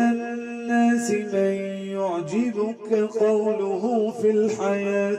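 Male voice reciting the Quran in melodic tajweed style, drawing out long held notes with wavering ornaments in the middle of the phrase.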